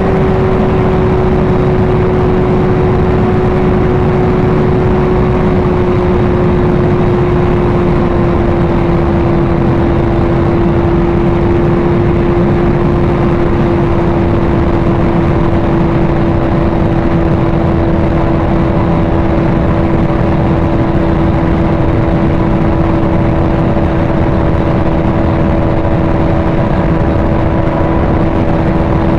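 Motorcycle engine at a steady highway cruise, its note easing slightly lower and then holding, under heavy wind rush on the microphone.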